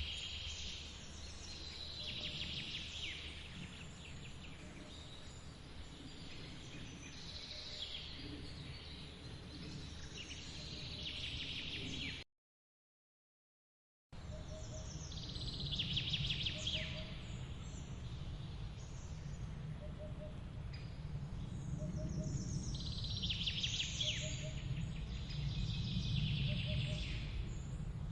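Songbirds singing in a forest, repeated high warbling phrases every few seconds, over a steady low rush of running water. The sound cuts out completely for about two seconds near the middle, then comes back with the low rush louder.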